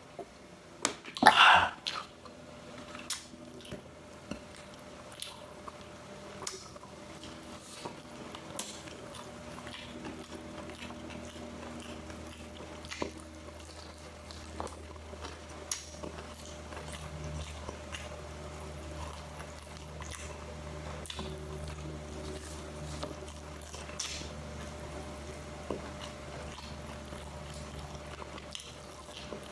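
A person eating close to the microphone, chewing and biting, with scattered soft clicks and a brief loud noise about one and a half seconds in, over a steady low hum.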